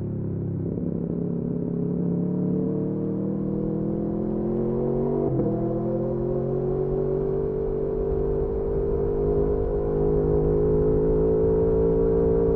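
Aprilia Tuono V4 motorcycle engine heard from on the bike. Its note dips in the first second, then climbs slowly and steadily under acceleration, with a brief break in the note about five seconds in.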